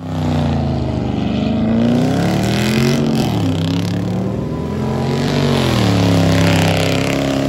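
Car engine held at high revs during a burnout slide, its pitch swelling up and falling back a few times as the driver works the throttle, with the car spinning in its own tyre smoke.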